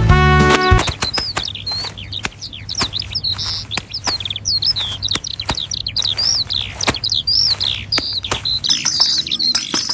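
Small birds chirping in quick, repeated downward-sweeping calls, mixed with frequent sharp clicks; a jazzy music intro cuts off about a second in.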